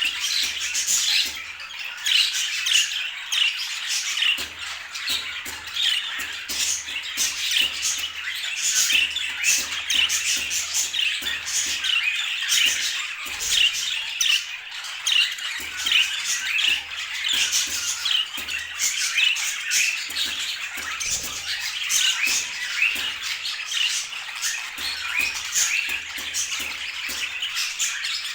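Budgerigars chattering and squawking without a break, many short chirps overlapping.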